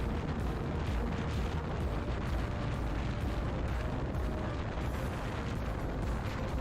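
Steady wind buffeting on a motorcycle rider's microphone, with the bike's engine running underneath, while riding at speed.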